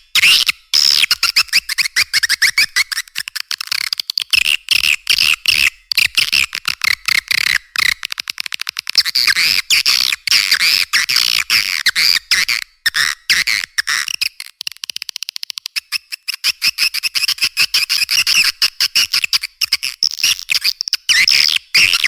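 Edible-nest swiftlets calling: a loud, unbroken mass of rapid chattering twitters with many short stutter-like breaks. It is a swiftlet-house lure call mixed with chick-response calls, and it sounds thin, with no low end.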